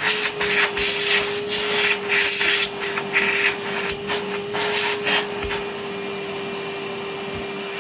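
Vacuum cleaner running with a steady motor hum, its rushing suction noise swelling and dropping again and again as it is worked, then holding even for the last two seconds or so.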